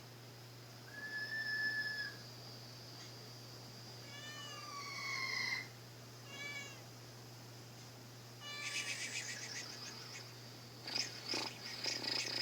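Domestic cat meowing several times, separate pitched calls followed by rougher, broken ones near the end.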